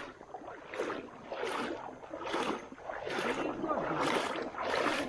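Kayak paddle strokes dipping and splashing in the river at a quick, even pace, about one stroke every 0.8 seconds.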